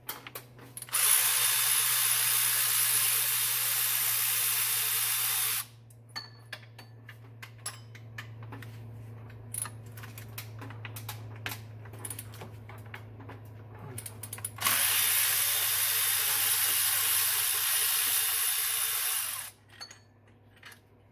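Power tool running in two bursts of about four to five seconds each, backing out the alternator's 15 mm mounting bolts. Between the runs there are scattered light clicks of tool and bolt handling.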